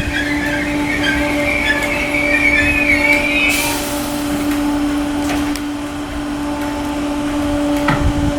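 Merseyrail electric train at the platform: a wavering high squeal for the first three and a half seconds or so, then a short hiss. A steady hum runs underneath, with a few clicks near the end.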